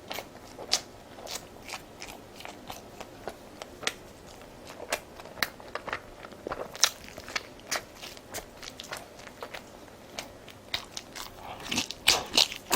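Close-miked chewing of crunchy food: a string of irregular crisp crunches and mouth clicks, getting denser and louder near the end.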